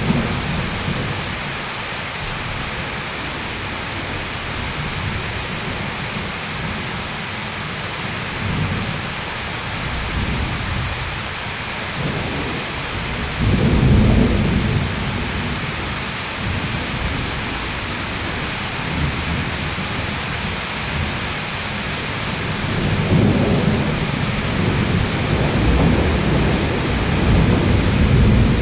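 Thunderstorm: steady heavy rain with rolling rumbles of thunder, a loud roll about halfway through and another building near the end.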